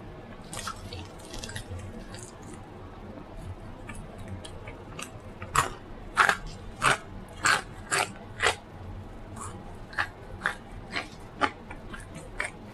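Close-miked mouth sounds of a person chewing food. Soft clicky chewing gives way, about halfway through, to a run of loud, sharp bites about two a second, then softer, spaced chews.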